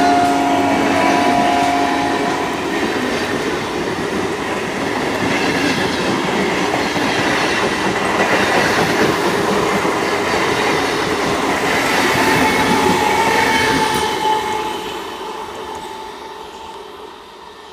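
Indian Railways passenger train running along the track with a loud, steady rumble and clatter of wheels on rails. A steady tone sounds over the first couple of seconds, and another briefly around twelve seconds in. The sound fades away over the last few seconds as the train moves off.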